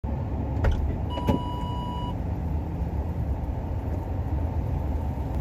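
Steady low rumble of a car heard from inside the cabin, with two clicks and a single steady beep about a second long near the start.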